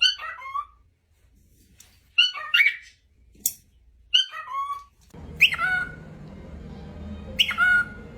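Pet parrot giving a string of short squawks and chirps, several with a quick downward-sliding whistle. About five seconds in, a steady low hum starts underneath.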